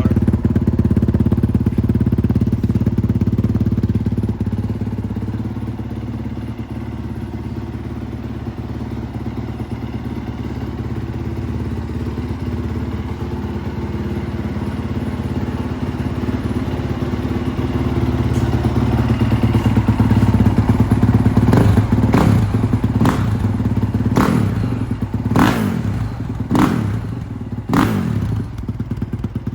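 2023 Honda CRF450R's 450 cc single-cylinder four-stroke engine idling through a new FMF 4.1 carbon slip-on exhaust on its first start-up. In the last eight seconds it gives a run of quick throttle blips, each a short rise and fall in pitch.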